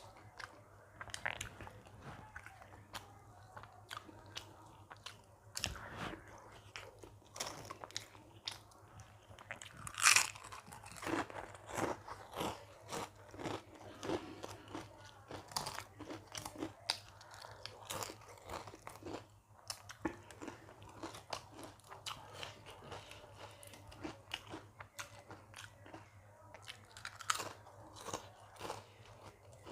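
Close-up mouth sounds of a person chewing a meal of rice, dal and vegetable sabzi: wet smacks and crunchy bites, many short ones in an uneven rhythm. The loudest bite comes about ten seconds in.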